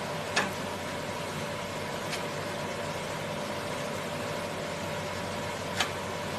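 SH30-2 wood spindle moulder running steadily with an even whirring hum, with two sharp knocks: one about half a second in and one near the end.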